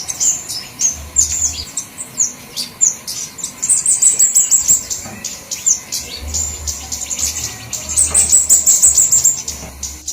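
Flowerpeckers (kemade or cabe-cabean) giving rapid, high-pitched chip calls, several birds calling over one another in a noisy, agitated chatter used as a bird lure.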